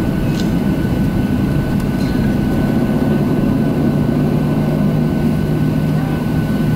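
Boeing 737-700 cabin noise with the CFM56-7 jet engines running at idle before takeoff: a steady low rumble with a steady hum and a thin, even whine above it.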